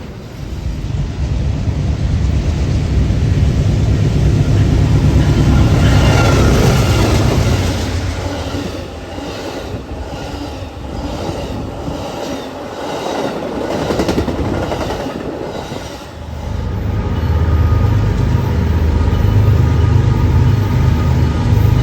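Train passing close by: a heavy rumble, with a stretch in the middle of regular wheel clacks over rail joints about twice a second, and the rumble building again for the last third.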